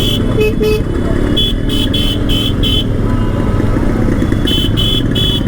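Motorcycle running through city traffic, a steady engine and road rumble, with groups of short, rapid high-pitched beeps at the start, in the middle and near the end.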